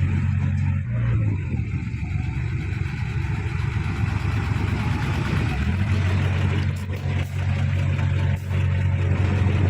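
Heavy diesel engine of earthmoving machinery running. About a second in, its steady low note rises briefly and then goes ragged for several seconds, settling back to a steady drone about six seconds in, with a few faint knocks after that.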